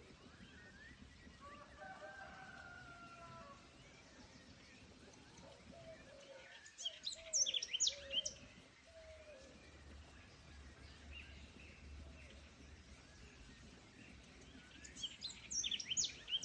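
Birds calling in woodland: a drawn-out lower call near the start, then two flurries of quick, high chirps, one around the middle and one near the end, over faint background ambience.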